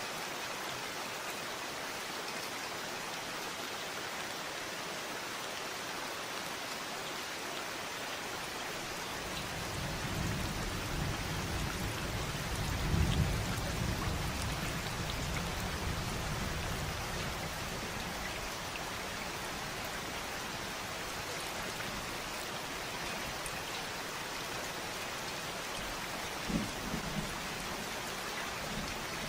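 Steady rain falling, with a low roll of distant thunder that swells about a third of the way in, peaks and fades over several seconds. A brief low rumble follows near the end.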